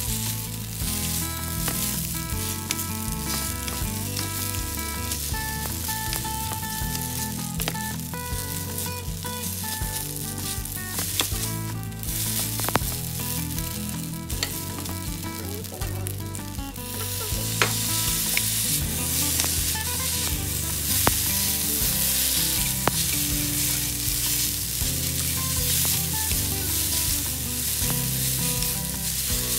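Flat rice noodles sizzling as they are stir-fried in a hot oiled nonstick frying pan, with scattered light clicks of chopsticks against the pan. The sizzle gets louder a little past halfway through.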